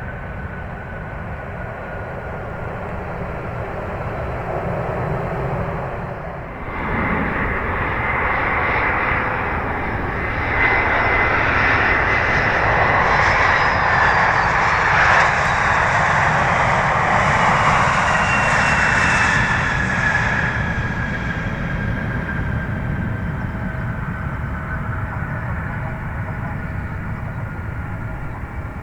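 Airliner jet noise that cuts abruptly about six seconds in. Then an Embraer ERJ-170 regional jet lands, its turbofan roar and whine swelling to a peak over about ten seconds and fading as it rolls past.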